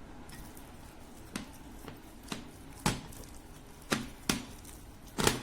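Minced chicken patty mixture being stirred by hand in a bowl, with about six sharp knocks at irregular intervals, the loudest near the end.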